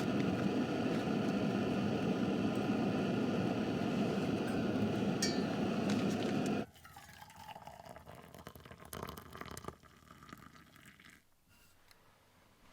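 Steady hiss of a propane burner running, which stops abruptly about two-thirds of the way through; after it, only faint small clinks and rustles.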